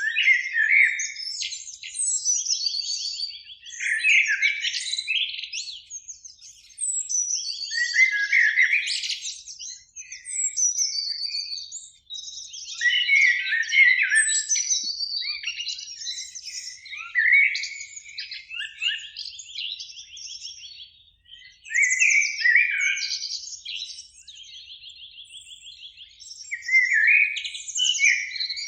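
Common blackbirds singing: phrases one after another, low whistled notes breaking into high twittering, with a rapid high trill coming back between phrases and short pauses.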